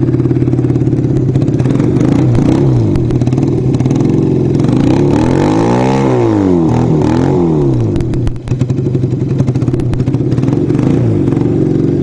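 Kawasaki 440 motorcycle engine running, revved up and down several times in the middle, then settling back with an uneven note. The bike has been losing power and running rough because it is nearly out of fuel, which the rider had first put down to bad gas.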